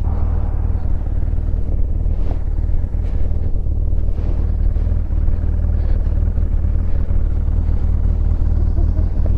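Motorcycle engine idling steadily at a constant pitch.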